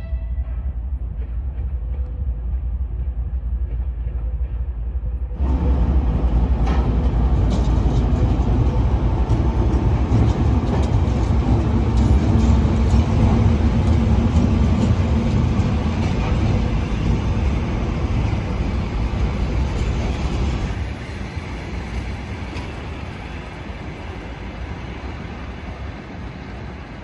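Train rumbling at a station platform: a steady low rumble that steps up sharply about five seconds in, with faint knocks, and eases back down about twenty seconds in.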